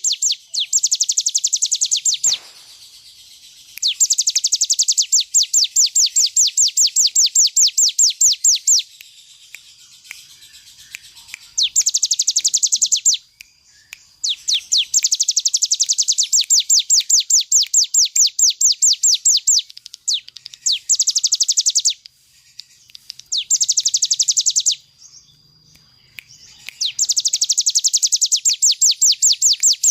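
Ciblek gunung, a prinia, singing in rapid drilling trills. Each phrase is a fast string of sharp, evenly repeated high notes lasting from about one to five seconds, and the phrases follow one another after short pauses.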